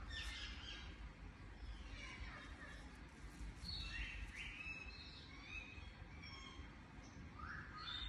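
Birds chirping: scattered short chirps and quick rising whistles at several different pitches, over a low steady rumble.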